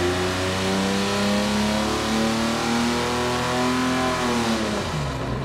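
Ford 300 straight-six with headers and a Holley four-barrel making a full-throttle dyno pull, its pitch climbing steadily as the revs rise. Near the end it is brought down and the revs fall quickly. It is running with the carburettor's metering plate drilled to richen a lean mixture at high rpm.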